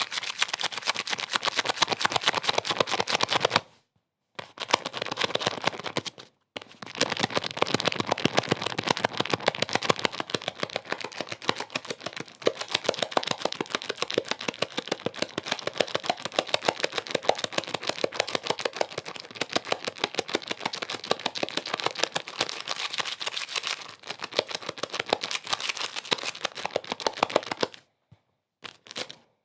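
Rapid, dense clicking and crackling, broken by brief drops to silence about four and six seconds in and again near the end.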